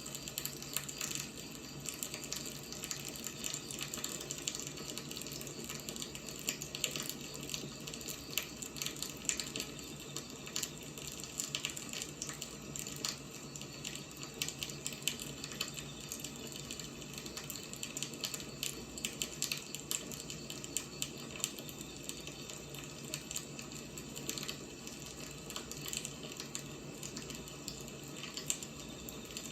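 Burning firewood: a steady hiss with frequent small, irregular crackles and pops.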